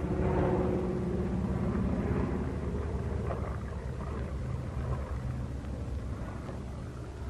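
Aircraft piston engines droning steadily, a low humming sound with a fine rapid pulse, easing off slightly over the last few seconds.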